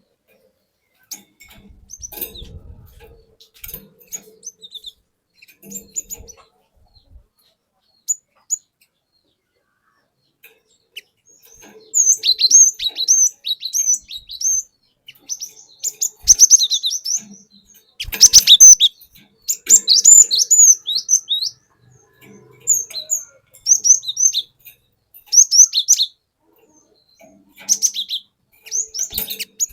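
Cinereous tit (glatik batu) singing: after about ten seconds of a few faint scattered chirps and soft knocks, it breaks into loud, rapid phrases of repeated high chirping notes with short pauses between them.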